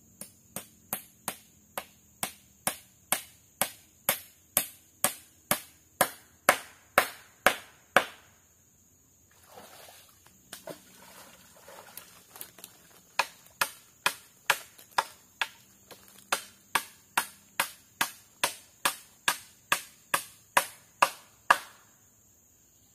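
Repeated sharp strikes of a hand tool on wood, about two and a half a second, in two long runs. Between the runs is a pause of a few seconds with softer rustling.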